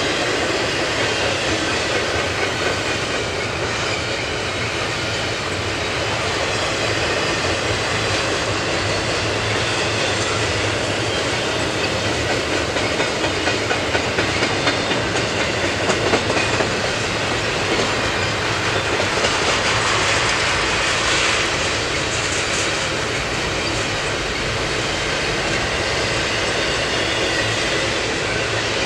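Double-stack intermodal freight cars rolling past: a steady rumble and rattle of steel wheels on the rails, with a run of sharper wheel clacks about halfway through.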